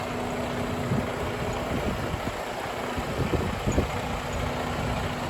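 2019 Freightliner Cascadia semi truck's diesel engine idling steadily.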